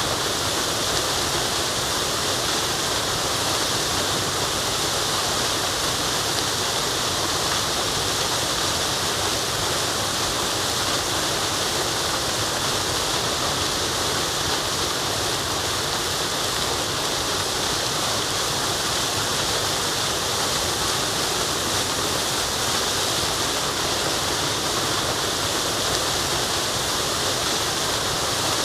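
Waterfall pouring water steadily: an even, unbroken rushing hiss with no changes.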